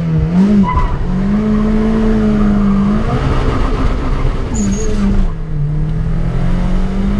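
Turbocharged 16-valve engine in a VW Polo G40 accelerating hard under full throttle, heard from inside the cabin. The engine note climbs slowly and breaks at gear changes about three seconds and about five seconds in, then climbs again.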